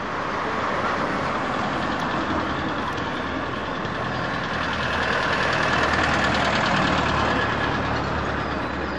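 Street traffic: a motor vehicle's engine runs nearby, growing louder to a peak about six to seven seconds in and then easing off, over a steady wash of road noise.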